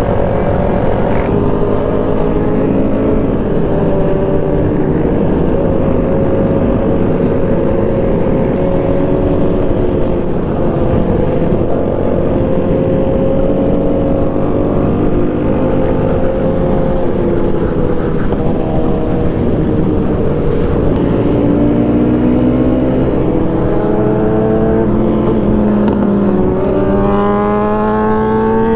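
Kawasaki Z125's small single-cylinder motorcycle engine running at road speed, over a steady low rushing noise; its pitch climbs over the last several seconds as it accelerates.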